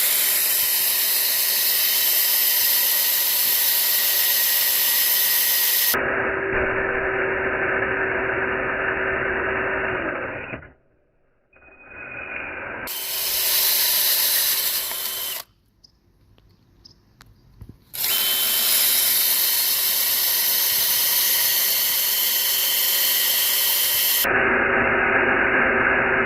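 Electric drill boring holes in wood, its motor running steadily with a constant whine. It stops twice for a second or two and starts up again.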